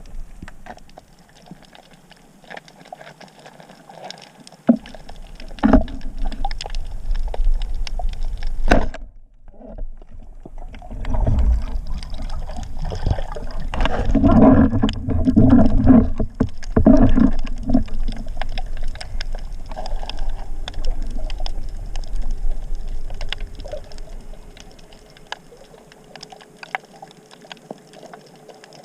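Water rushing and sloshing around a camera in the sea, with a louder stretch in the middle and scattered clicks throughout.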